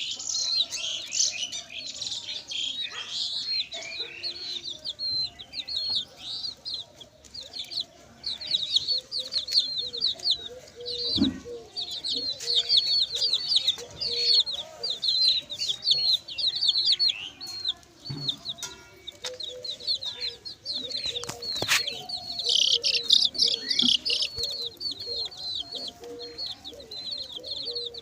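A brood of chicks peeping: many short, high calls in quick, continuous succession, with a hen's lower clucks underneath.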